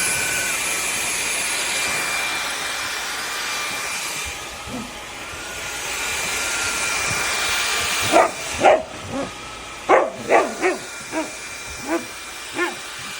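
SunSare X7A cordless stick vacuum running with a steady high whine. From about eight seconds in, a dog barks about nine times in short, sharp barks over the vacuum.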